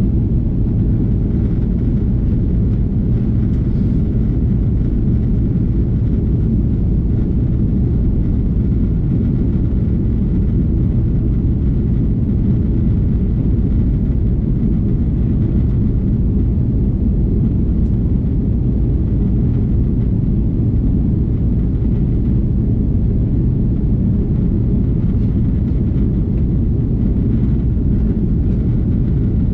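Steady low rumble of an Airbus A330-300's engines and airflow heard inside the passenger cabin in flight.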